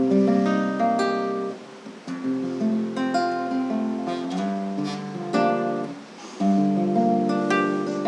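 Acoustic guitar playing a chord-based intro, strummed and picked, with brief dips between phrases about a second and a half in and again near six seconds.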